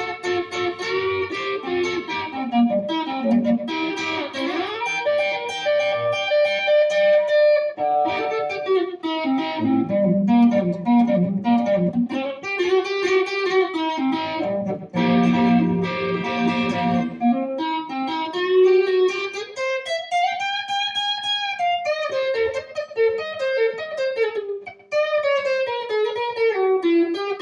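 Instrumental break of a rockabilly song: an electric guitar solo of quick picked runs and bent notes over the band, with a long note that slides up and back down near the end.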